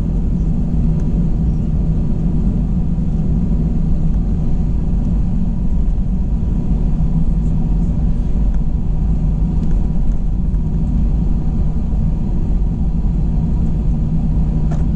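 Steady low cabin rumble of an Airbus A321 on the ground before takeoff, its engines at idle, heard inside the cabin.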